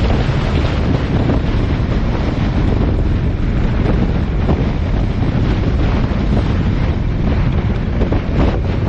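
Wind buffeting the microphone: a loud, steady rumble that flutters unevenly.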